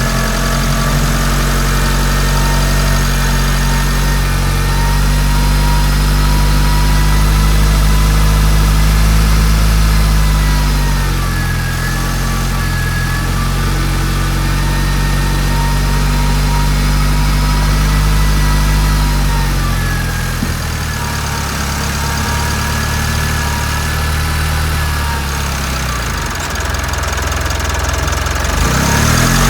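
Mitsubishi Delica D5 diesel engine idling, heard close up in the engine bay; its speed dips slightly twice and picks up again near the end.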